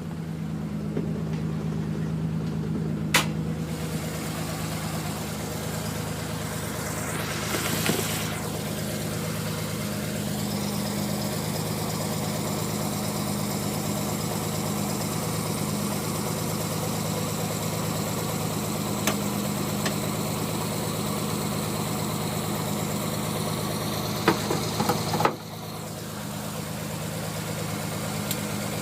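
Non-turbo Nissan Skyline R33's straight-six engine idling steadily, on a car whose owner reports rough running and misfires until it has warmed up. A few sharp clicks, and the sound dips briefly about 25 seconds in before settling back.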